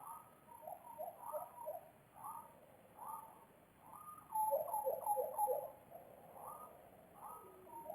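Birds calling in a series of short, fairly low-pitched notes, with a louder run of rapid notes about halfway through.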